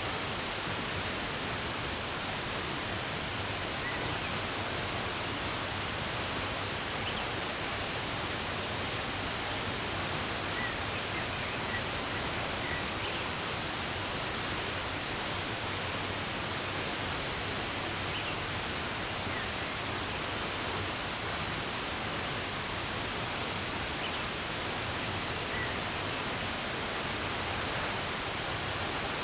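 Steady rush of running water, with a few faint, brief bird chirps scattered through it.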